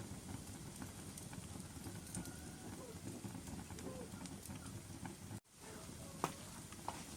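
Wood fire burning in a fireplace: a steady low rumble of flames with scattered sharp crackles and pops, the loudest pop about six seconds in. The sound cuts out for a split second about five and a half seconds in.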